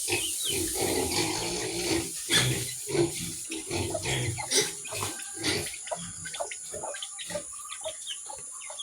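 Pigs grunting repeatedly in short, irregular grunts.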